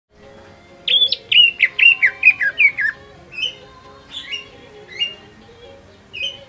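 Cucak ijo (green leafbird) singing: a quick run of about eight loud, downward-slurred whistled notes, then scattered softer notes.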